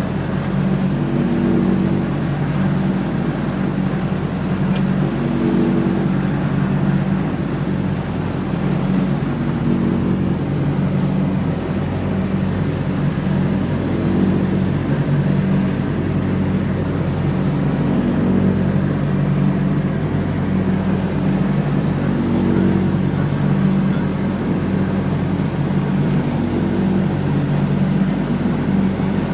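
John Deere X304 lawn tractor's engine running steadily while mowing, its pitch rising and falling slightly.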